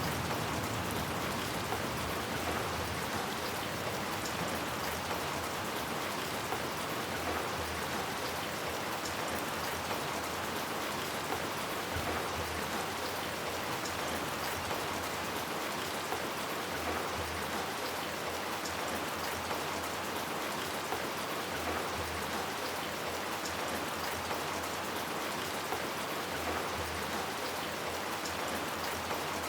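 Steady rain falling, an even hiss with scattered drops ticking on hard surfaces.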